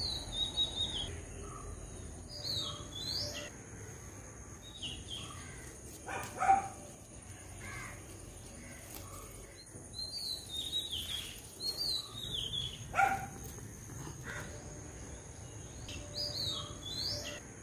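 Garden birds calling: short, high, downward-gliding chirps repeating every few seconds, with a couple of louder, lower calls about a third and three quarters of the way through. A faint, steady, high-pitched tone runs underneath.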